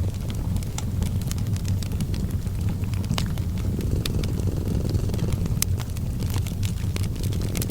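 A cat purring steadily in a continuous low rumble, blended with a crackling fireplace that gives many scattered sharp pops and snaps.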